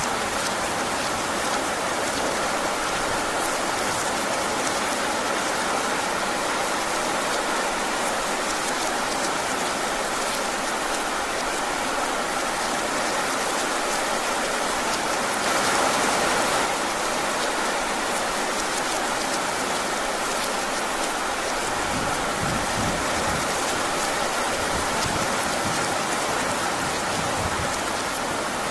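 Heavy rain falling steadily, a dense even hiss of drops that swells briefly about halfway through. A low rumble joins in over the last several seconds.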